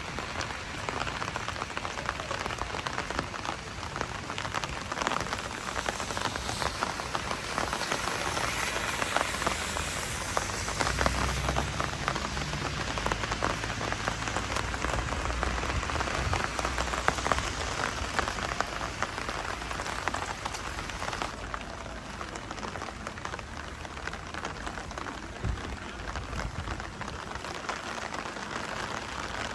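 Rain pattering steadily on a surface, a dense spread of small ticks, going a little softer about two-thirds of the way in.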